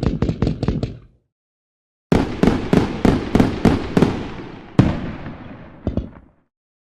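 Fireworks going off in rapid strings of sharp bangs, about four or five a second. They stop a second in, resume after a gap of dead silence, and trail off in a fading crackle, with a single louder bang near the middle and a couple more just before the end.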